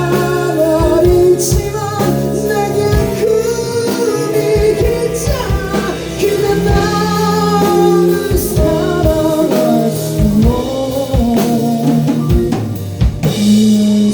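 Live band playing: drum kit keeping a steady beat under guitar and chords, with a melody line carried over them.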